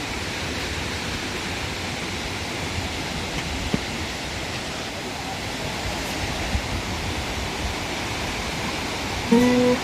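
Waterfall's falling water making a steady rushing noise. Near the end a sustained musical note comes in.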